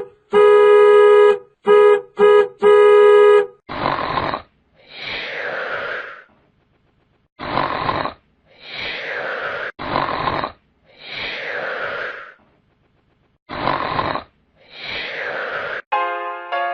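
Cartoon snoring sound effect: a rasping inhale followed by a longer exhale that falls in pitch like a whistle, repeated four times in an even rhythm. It is preceded by a buzzy horn-like tone sounding in five blasts: one long, three short, one long.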